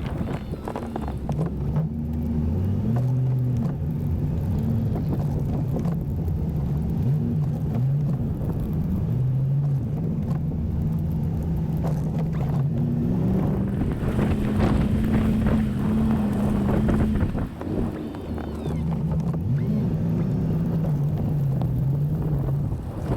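Pickup truck engine running under load while plowing snow, its pitch rising and falling as the throttle is worked back and forth. A burst of wider rushing noise comes in briefly past the middle.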